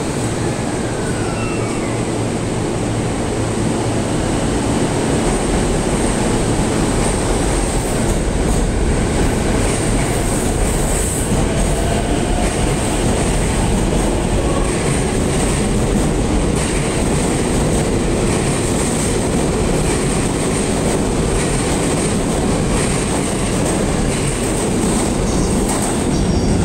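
Keihin-Tohoku Line E233-1000 series electric commuter train pulling out of the station and running past along the platform, growing a little louder as it picks up speed.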